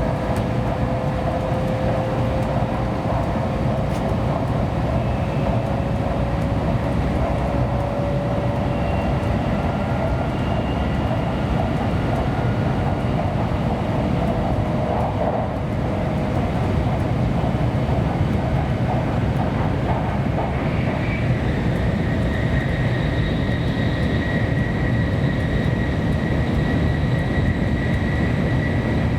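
Running noise heard inside a Kyushu Shinkansen passenger car at speed: a steady rumble of wheels on rail, with a faint motor whine that slowly rises in pitch as the train gathers speed.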